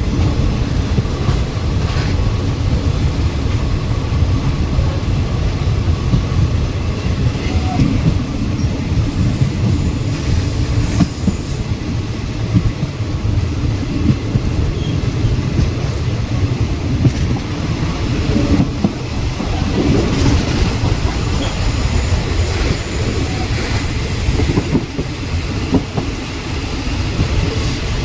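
Passenger train running at speed, heard from on board: a steady low rumble of the carriage with scattered clicks and knocks from the wheels over the track.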